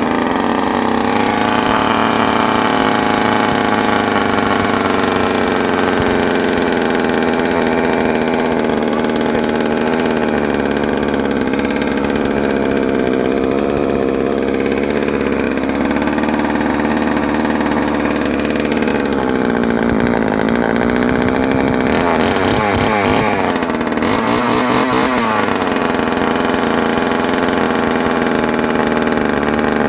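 Poulan Micro XX 25 Deluxe chainsaw's small two-stroke engine running after being pull-started, with no bar or chain fitted. It is the barn-find saw's first run after years standing. The engine runs at a steady speed, and its speed wavers up and down about two-thirds of the way through.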